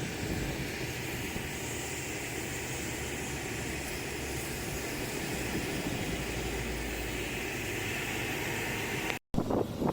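Steady rushing noise of an airplane with a low rumble, unchanging for about nine seconds, then cut off abruptly by an edit and replaced by choppier, gustier noise.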